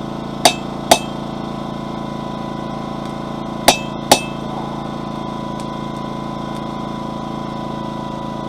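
Hammer striking a flat chisel held on a hot steel bar, scoring a cut line: two pairs of sharp metallic blows, each with a brief ring, about three seconds apart. A generator engine drones steadily underneath.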